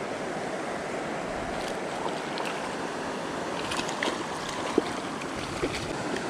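Creek water running steadily over rocks, with a couple of short clicks in the second half.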